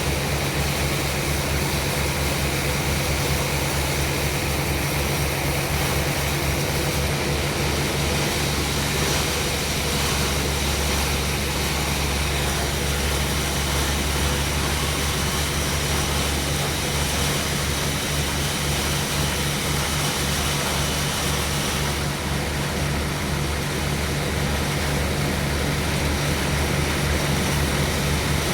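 Sawmill machinery running steadily: a low, evenly pulsing engine-like hum with a steady noise over it.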